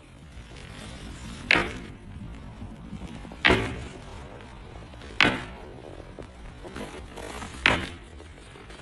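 Four sharp knocks, roughly two seconds apart, each fading away quickly.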